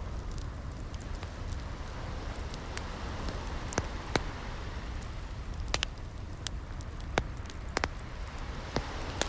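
Wood fire crackling, with sharp irregular pops scattered through, the loudest about four and seven seconds in, over a steady low rush of waves.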